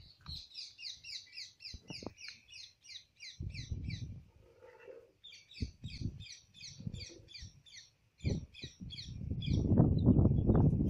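A bird calling in fast, even runs of sharp chirps, about five a second, in two long bouts. A low rumble comes in now and then and is loudest near the end, louder than the bird.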